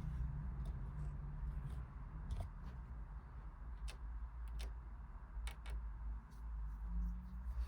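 Scattered sharp plastic clicks, about half a dozen at irregular intervals, from handling a toy washing machine, over a steady low hum.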